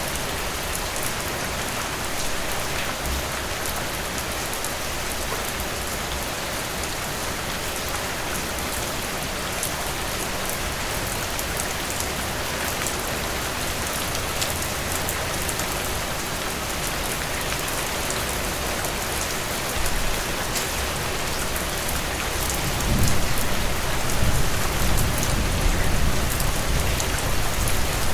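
Heavy rain pouring steadily in a dense, even downpour. A low rumble comes in about three-quarters of the way through, making it louder.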